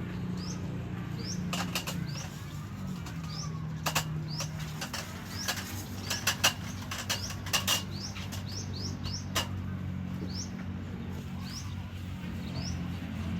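A short, high, rising chirp repeats every half second to a second, with a cluster of sharp clinks and knocks in the middle, over a steady low hum.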